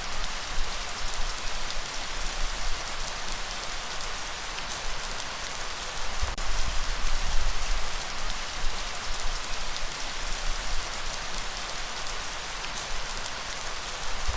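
Steady rain falling, a dense even hiss of drops with scattered single drop ticks. A low rumble swells underneath about six seconds in.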